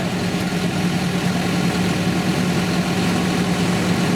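Tractor engine idling steadily with an even low hum.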